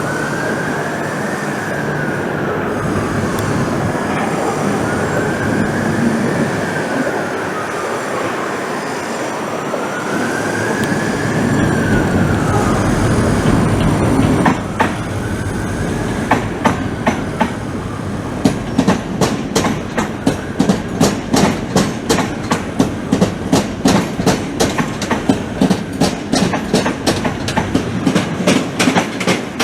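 A train running on the rails. A whine rises and falls in pitch several times over the running noise. About halfway through, a rhythmic clickety-clack of wheels over rail joints begins and quickens.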